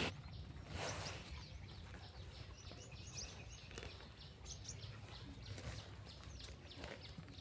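Faint outdoor ambience with scattered small bird chirps and a low background rumble, and a brief soft rush of noise about a second in.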